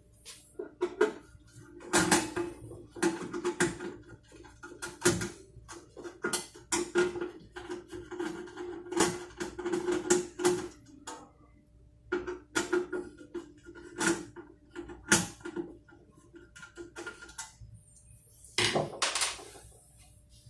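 Irregular clicks, knocks and clatter of a metal electric water boiler being handled and taken apart. There are short quiet gaps between clusters of strokes.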